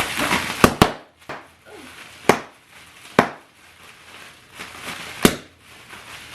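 Packaging being handled while a box is unpacked: a rustling haze with about six sharp knocks spread roughly a second apart.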